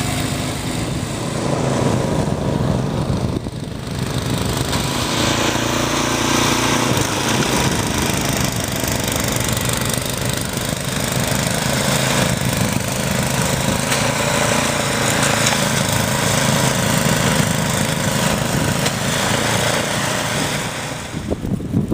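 Gasoline snowblower engine running steadily while clearing a deep snowdrift, its note shifting a little as it works.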